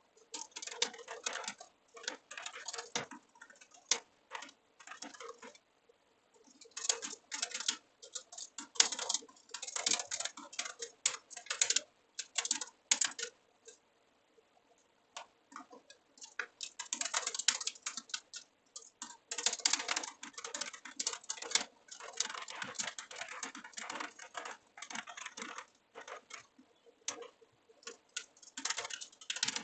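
Typing on a computer keyboard: rapid runs of keystroke clicks in bursts, with short pauses about six seconds in and again around fourteen to sixteen seconds in.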